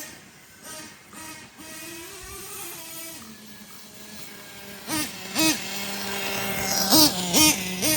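.25 nitro engine of an Ofna Titan RC monster truck running, with a series of quick throttle blips that briefly rise and fall in pitch, the strongest ones in the second half.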